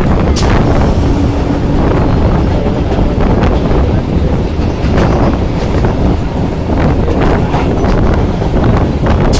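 Local passenger train running, heard from on board, with heavy wind buffeting on the microphone and occasional short clanks.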